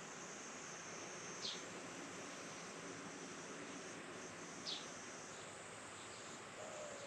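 Outdoor rural ambience: a steady high-pitched insect trill, with a bird giving a short, sharp descending call twice, about three seconds apart.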